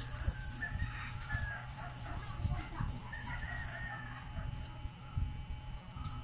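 Short, high bird calls, bunched about a second in and again around three seconds in. Beneath them come frequent light knocks and handling noise from hands and pliers stripping the metal casing off a dry-cell battery on a table.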